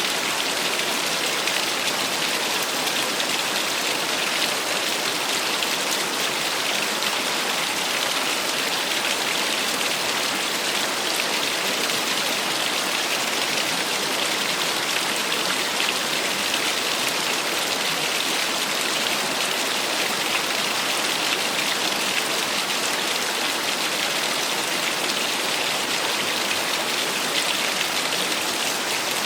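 Small waterfall splashing and rushing steadily, an even unbroken water noise.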